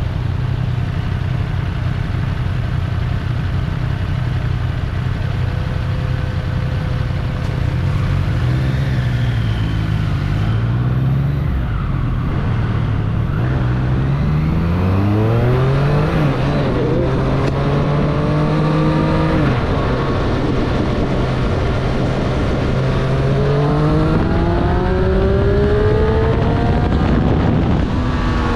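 2024 Triumph Street Triple's inline three-cylinder engine heard from the rider's seat. It runs steady at low revs, then pulls away with its pitch climbing in steps through the gears, holds a steady cruise, and climbs again near the end, over constant wind and road noise.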